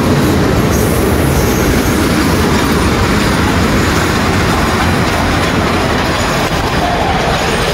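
Passenger train coaches, including double-deck cars, rolling past close by along a station platform: a loud, steady rumble and rush of wheels on the rails.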